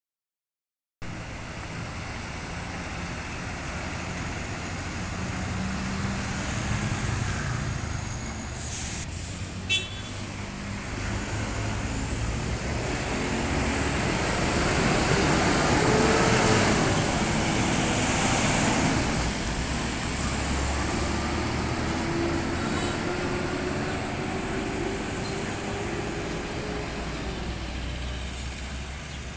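Road traffic with truck engines running, swelling as a vehicle passes about halfway through, with a brief sharp hiss or knock about a third of the way in and an engine rising slowly in pitch afterwards.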